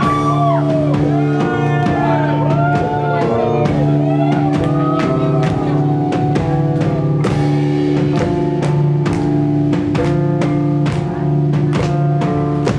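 Rock band playing: sustained guitar chords over drums with regular cymbal hits, and a lead melody bending up and down in pitch through the first half.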